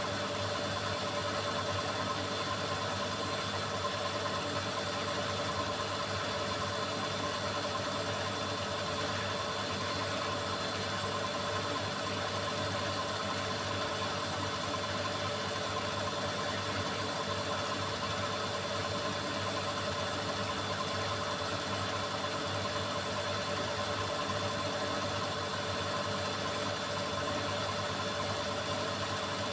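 Beko WMY81283LMB2 washing machine running its drum at a steady speed, most likely in the cycle's spin: an even motor hum made of several steady tones, with no change in speed.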